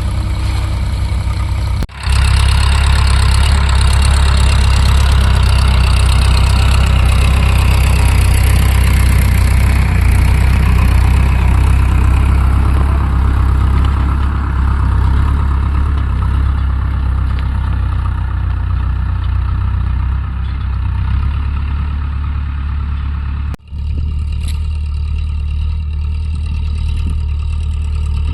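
Farm tractor's diesel engine running steadily with a strong low drone. The sound breaks off abruptly twice, about two seconds in and near the end, and after the second break it is duller.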